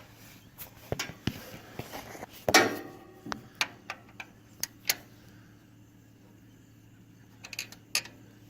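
Scattered metallic clicks and clinks of a wrench and hand tools against the tractor's engine, with one louder ringing clank about two and a half seconds in. A quieter stretch follows, then a few more clicks near the end.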